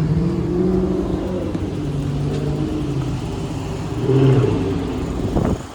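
A motor vehicle's engine running close by, its pitch drifting up and down as it accelerates, louder about four seconds in, then dropping off abruptly near the end.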